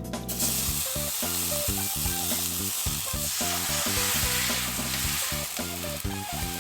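Food sizzling hard in a hot Chinese wok, the sizzle starting suddenly just after the start as ingredients hit the oil, then running on as a loud steady hiss while being stirred. Background music plays underneath.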